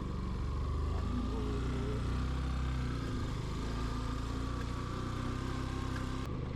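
Motorcycle engine running steadily as the bike is ridden, a low even drone.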